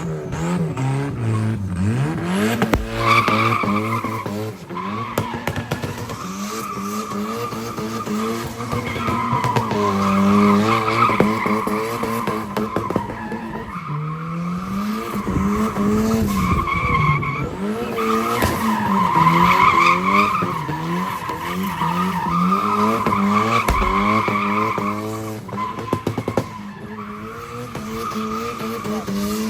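Car engine revving hard, rising and falling again and again, with tyres squealing and skidding on the pavement.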